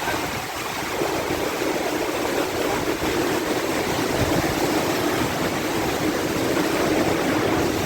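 Waterfall: a steady rush of falling water, an unbroken roar of noise.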